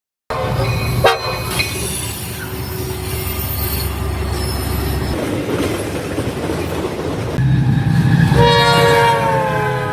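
Train going by: a steady low rumble with a sharp bang about a second in, and a locomotive air horn sounding a chord of several notes from about eight seconds in, loudest near the end.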